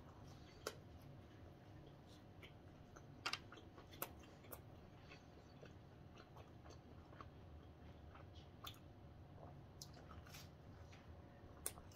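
Faint chewing of a bite of tomato pizza, with a few short sharp clicks, the loudest about three and four seconds in.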